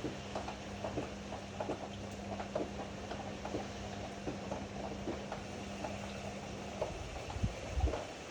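Ariston AML125 washer-dryer running, its drum turning with irregular soft knocks and clicks over a steady hum. The hum cuts off about seven seconds in, and a couple of low thumps follow.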